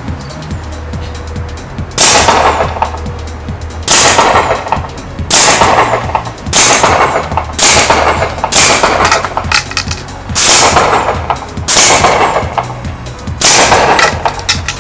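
Home-built pneumatic exhaust cannon, an air cannon dumped through a quick exhaust valve, firing again and again: sharp loud blasts about every one to two seconds, each trailing off in a short hiss of escaping air.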